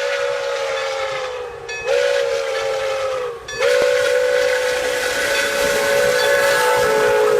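A steam locomotive's chime whistle blowing three blasts, the last one long, each sagging slightly in pitch as it ends, over a hiss of steam.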